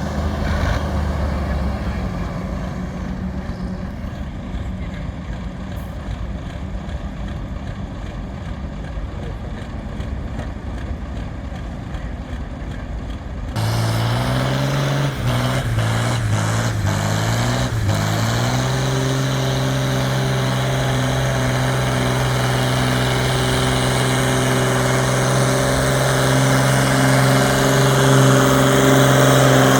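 A competition pulling tractor's engine runs low at first. About halfway through it jumps much louder, its pitch stepping up and down for a few seconds. It then holds a steady, loud note that grows louder toward the end, as under load on a pull.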